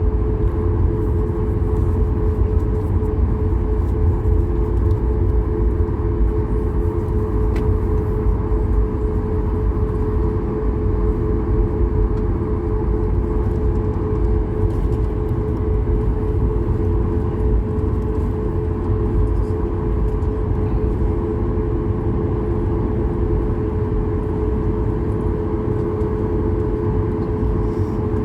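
Cabin noise of a Boeing 737 MAX on the ground before takeoff: a steady low rumble with a constant hum from its CFM LEAP-1B engines at low power.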